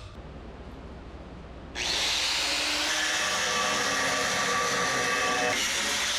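Low background for the first couple of seconds, then a power tool starts abruptly and runs steadily and loud.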